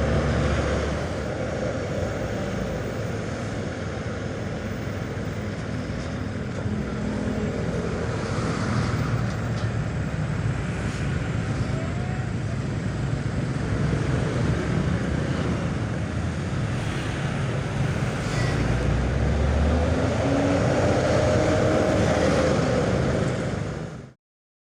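Hino box truck's diesel engine running, a steady low drone with road noise, growing louder in the second half with a rising pitch toward the end, then cutting off suddenly.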